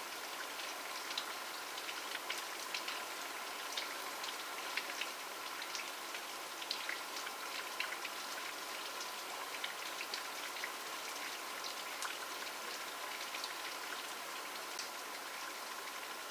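Steady rain falling, an even hiss with many separate drops tapping on a surface at irregular moments.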